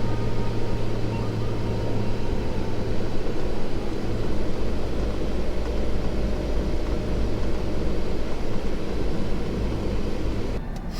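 Kenworth T680 semi truck running down the road, a steady low diesel drone with road and wind noise heard from inside the cab. Near the end the hiss above the drone drops away abruptly and a few clicks follow.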